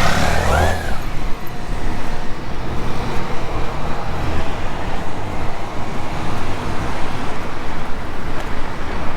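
Steady road traffic noise, a continuous low rumble of passing vehicles. A wavering high pitched tone fades out about a second in.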